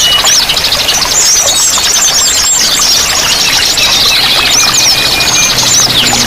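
A dense chorus of many small songbirds chirping and twittering at once, with rapid high trills and quick rising and falling notes, over the steady rush of flowing water.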